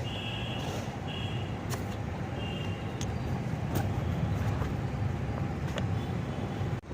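Steady low rumble of road traffic, with a few faint clicks and several short high squeaks.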